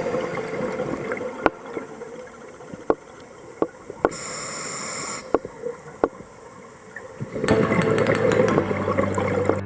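Underwater ambience with scattered sharp clicks and a brief hiss about four seconds in, typical of a scuba diver's regulator breath. Background music comes back near the end.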